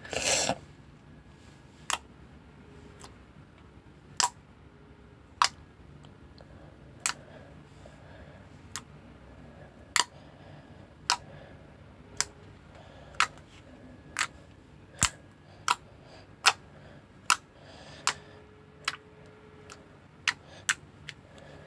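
Slime being handled, giving a series of sharp clicks and pops at uneven gaps of about a second, with a short crackling burst right at the start.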